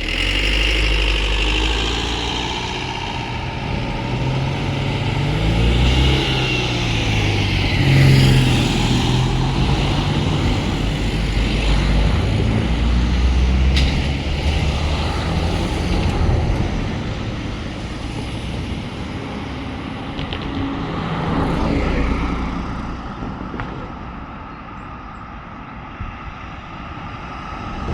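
Vehicle engines running and passing, their pitch rising and falling, with the loudest moments about a third of the way in and again near the end before it eases off.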